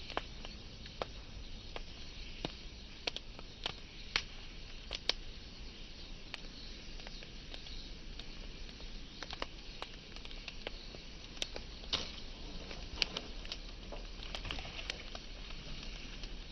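Wood fire burning, with irregular sharp crackles and pops over a steady hiss.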